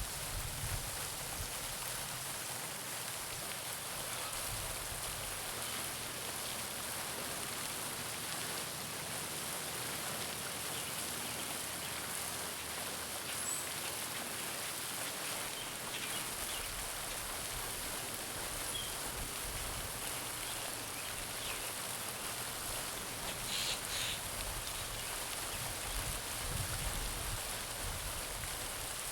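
Garden fountain splashing steadily into a pond, an even patter of falling water, with a few faint bird chirps.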